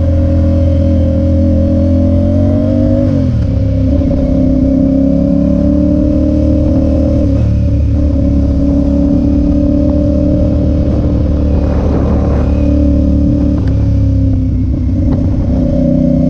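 Motorcycle engine running at road speed, its pitch climbing slightly and then dropping sharply about three seconds in with an upshift, then holding steady.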